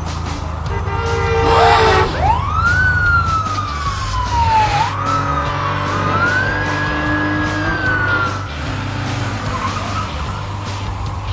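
Cartoon police siren sound effect wailing up and down several times, then holding a high note before falling away. It plays over looping background music with a steady beat.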